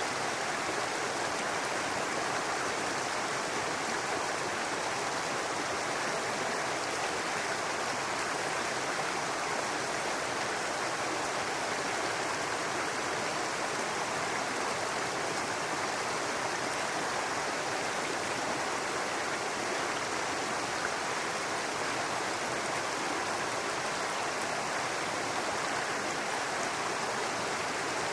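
Brook babbling steadily, an even rush of running water that does not change.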